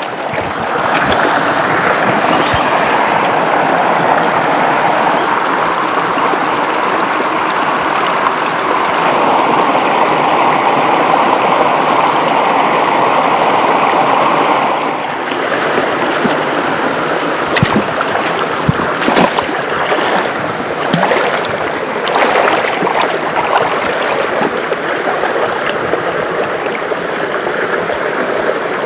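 Rushing river water, a steady loud wash. About halfway through it changes abruptly to a slightly quieter, choppier rush with scattered small splashes.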